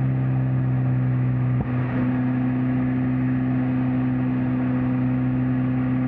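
Mazda Miata NC's four-cylinder engine and exhaust droning at a steady pitch while the car cruises, over road and wind noise. The sound dips briefly about one and a half seconds in.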